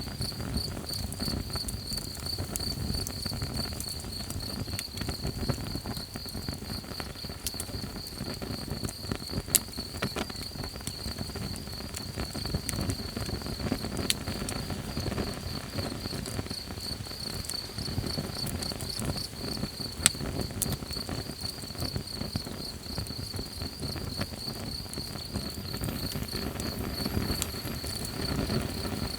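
Crickets chirping in a steady, rapid pulsing trill over the low crackle of a campfire, with a few sharp pops from the fire.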